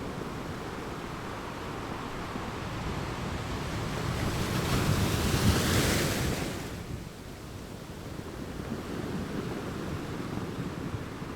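Ocean waves on a shore, one wave building to a hissing break about halfway through and then washing back, over a steady low rumble of surf with some wind on the microphone.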